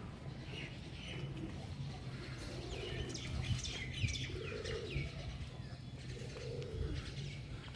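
Birds gathered at a feeding spot, chirping and calling: clusters of short falling chirps, with a few lower calls in between, over a low steady hum.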